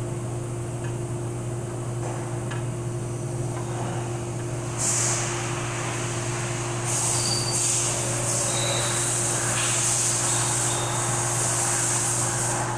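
Spray hissing in bursts: a short one about five seconds in, then a long one from about seven seconds to near the end, over a steady low machine hum.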